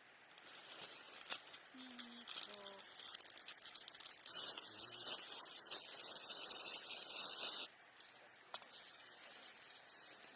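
Aluminium foil crinkling, then a few seconds of continuous tearing and rustling that stops abruptly.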